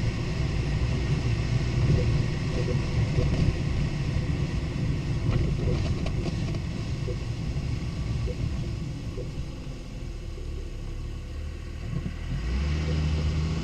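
Lexus IS250 driving, with steady low road and tyre rumble and a few faint knocks about five to six seconds in; a steady low hum sets in near the end. The knocks are the kind of clatter and creak the owner hears from the suspension over bumps, which he suspects come from the stabilizer links.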